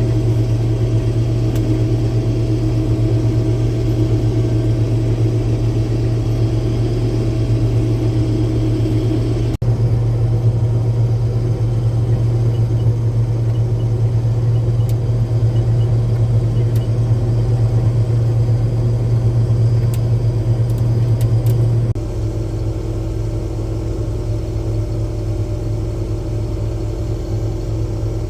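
Combine harvester running steadily while harvesting soybeans: a constant low engine drone. The sound jumps abruptly about ten seconds in and again about two-thirds of the way through, and it is a little quieter after the second jump.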